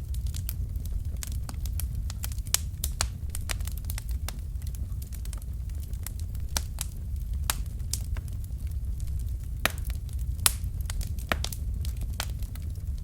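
Wood fire in a fireplace burning steadily: a low rumble of flame with irregular sharp pops and crackles from the burning logs, a few louder snaps among them.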